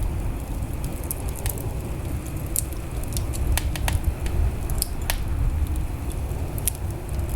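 Wood fire in a fireplace crackling, with sharp, irregular pops and snaps over a steady low rumble of the flames.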